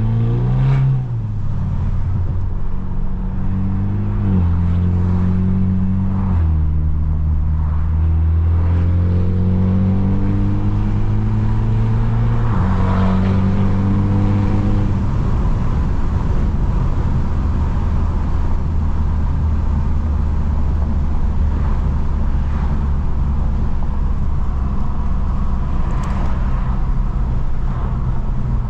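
Straight-piped BMW F30's exhaust under acceleration: the pitch climbs and drops sharply at three upshifts in the first half, then holds a steady drone as the car cruises.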